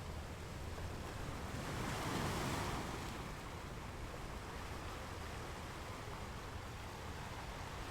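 Ocean waves breaking on a beach, one wave swelling and washing in about two seconds in, then a steadier surf wash.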